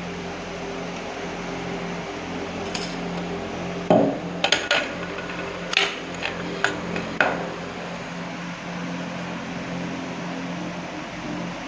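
A steady mechanical hum, with a quick run of about seven hard knocks and clinks, like tools striking metal, starting about four seconds in and lasting about three seconds, the first knock the loudest.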